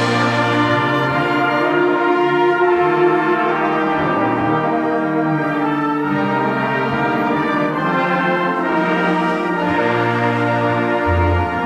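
A concert wind band playing, with the brass to the fore: sustained full chords over a moving bass line.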